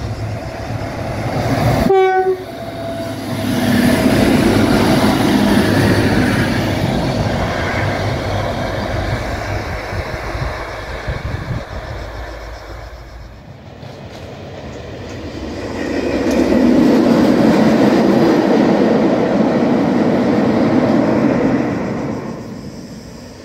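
Train passing close by, with a short horn blast about two seconds in, then a long rolling rumble. The sound drops off suddenly, and another train's rumble swells loud and fades away near the end.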